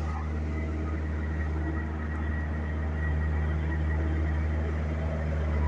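Steady low engine drone of a motor vehicle running evenly, with no change in pitch or speed.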